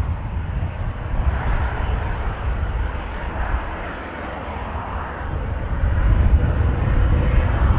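Jet airliner engines running, a steady rush that swells towards the end, with wind rumbling on the microphone.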